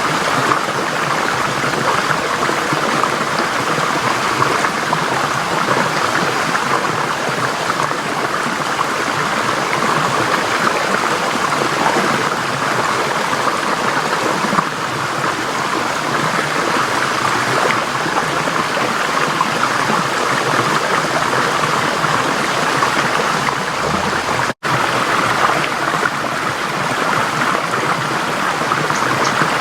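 Forest stream flowing, a steady rush of water. It cuts out for an instant about five seconds before the end.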